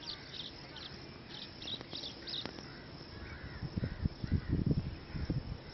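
Birds calling outdoors: a quick run of short, high chirps in the first couple of seconds, then a few lower calls. From about three and a half seconds in, wind gusts buffet the microphone with a low rumble, the loudest sound.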